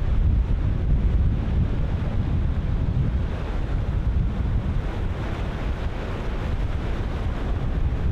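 Ocean surf breaking and washing, with strong wind buffeting the microphone in a heavy low rumble.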